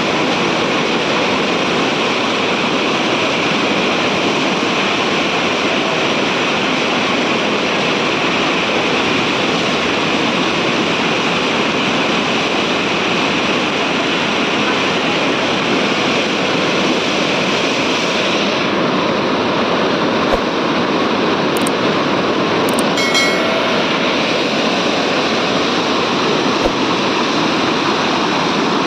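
Floodwater rushing, a loud, steady, even noise, with a few faint clicks about two-thirds of the way through.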